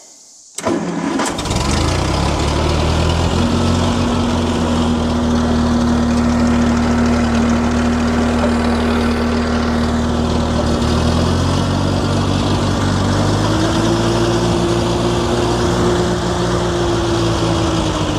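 Massey Ferguson 50 tractor engine starting about half a second in, catching almost at once and then running steadily, on its first start after an oil change. Its speed rises a little past halfway and eases back near the end; to the owner it sounds pretty good.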